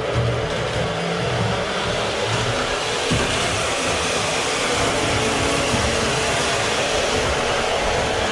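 Steady whirring hiss of a model train locomotive's small electric motor running, with no clear rhythm.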